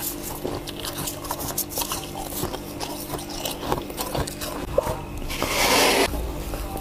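Close-up crunching and crackling of freezer frost and ice being chewed, in a run of small irregular clicks. About five and a half seconds in comes a louder rushing noise that lasts under a second.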